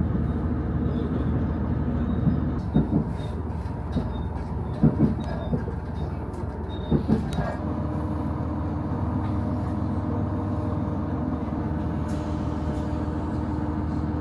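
Cabin sound of a local diesel railcar running along the track: a steady low rumble with pairs of wheel knocks over rail joints. About halfway through, a steady hum sets in.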